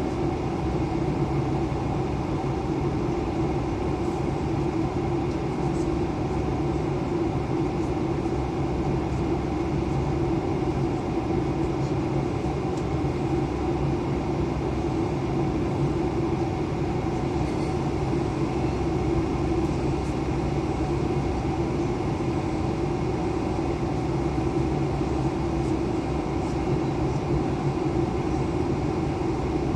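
Airbus A320 airliner noise: a steady drone of engines and rushing air with several fixed hums, unchanging in level.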